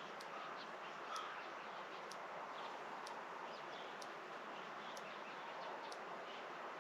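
Rural outdoor ambience: a steady background hiss with faint scattered bird chirps, and a faint high tick about once a second.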